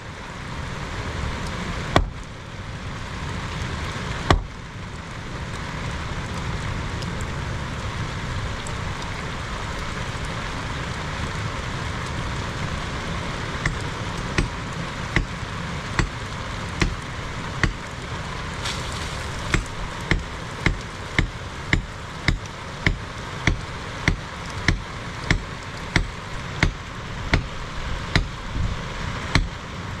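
Steady rain, with a run of sharp blows starting about halfway through, at first about one a second, then about two a second.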